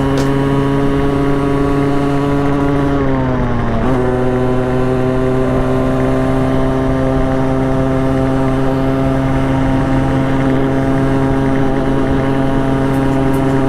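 Motorcycle engine running at steady revs while riding, with wind rush. About three to four seconds in, the revs sag briefly, then pick up again and hold.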